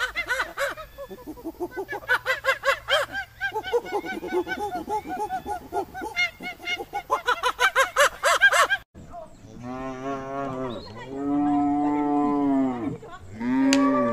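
Monkey chattering: a dense run of rapid, high, squeaky calls. About nine seconds in it gives way to cattle mooing, three long low moos, the last still going at the end.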